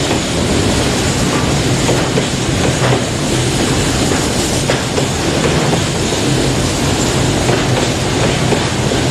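Empty flat wagons of a freight train rolling past at close range: a steady rumble and rattle with occasional clicks from the wheels.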